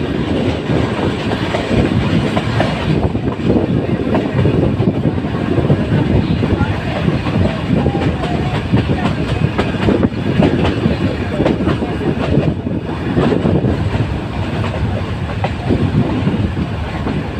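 A metre-gauge Nilgiri Mountain Railway train running, with a steady rattling clatter of wheels over the rail joints.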